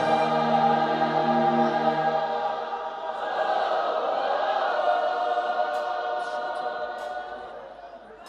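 Choir singing long held chords in a gospel worship song, with no clear words. A low sustained note drops out a little under three seconds in, and the music fades down near the end.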